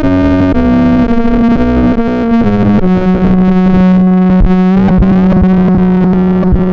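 Synthesizer-like electronic instrument tones recorded direct, with no amp: a run of short, shifting notes, then from about three seconds in a single low note held steady.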